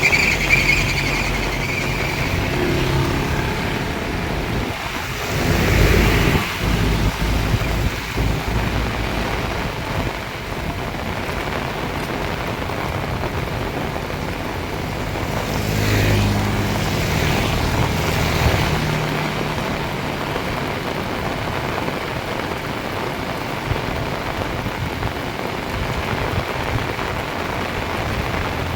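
Heavy rain pouring steadily. A motor vehicle's engine hum passes through the rain about five seconds in and again around sixteen seconds in.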